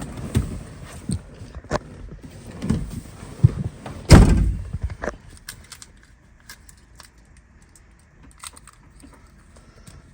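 Handling knocks and rustles, with one loud thump about four seconds in as a car door or body panel is shut, then scattered light clicks; no engine running yet.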